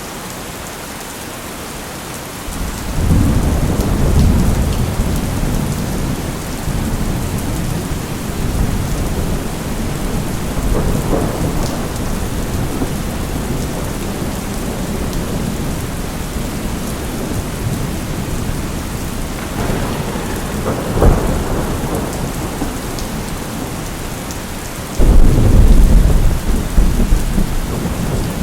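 Steady rain with rolling thunder: a low rumble starts suddenly a few seconds in and rolls on, a sharp crack comes about two-thirds of the way through, and the loudest clap of thunder breaks near the end.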